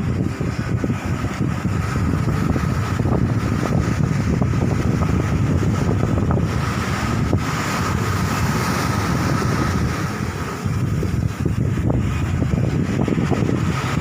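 Strong wind buffeting the microphone: a steady, heavy low rumble that rises and falls with the gusts.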